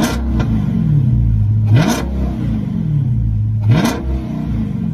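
Car engine revved hard three times, about two seconds apart, with a loud exhaust bark at the top of each rev. Each time it sinks slowly back to a steady idle.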